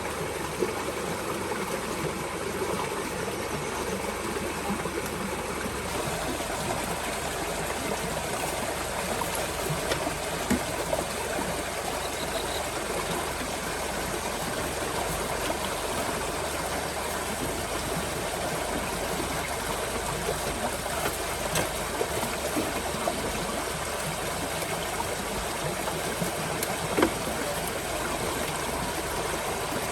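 Steady rushing of running water, with a few faint knocks.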